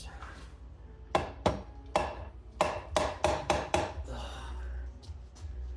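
Non-metal hammer tapping lightly on a Honda Rancher 420 engine case to break the case halves loose, a run of about eight sharp knocks with a short pause near the end.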